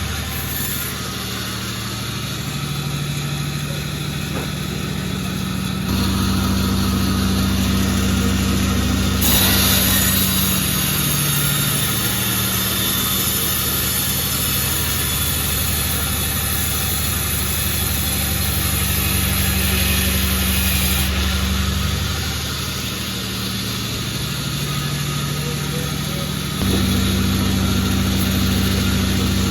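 Sawmill running while sawing jackfruit wood beams: a steady machine drone with low humming tones. The drone changes pitch and level in steps a few times, and a hiss joins it through the middle stretch.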